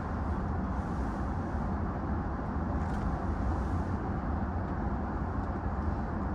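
Steady low hum and rush of a standing E233 series electric train's onboard equipment, heard from inside the car while the train is stopped.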